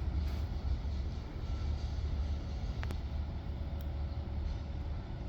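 Low, steady rumble of a vehicle engine running, with a few faint clicks.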